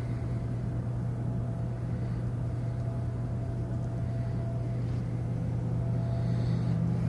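Steady low machinery rumble with a faint constant hum from the cruise ship Mein Schiff 4 as it manoeuvres to dock, growing slightly louder near the end.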